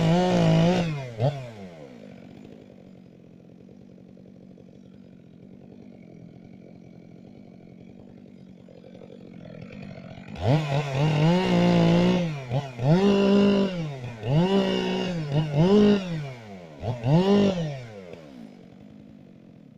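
Two-stroke chainsaw revving high, then idling for about eight seconds, then revved up again in four or five bursts about a second apart before dropping back to idle.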